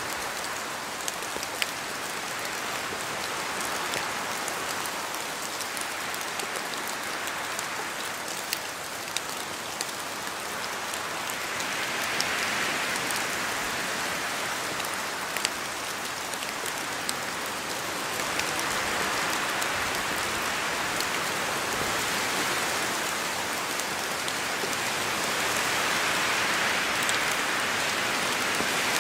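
Steady rain in a forest, hissing on leaves, with scattered individual drops ticking sharply. The rain swells and eases in slow waves every several seconds, as gusts of wind shake water down from the trees.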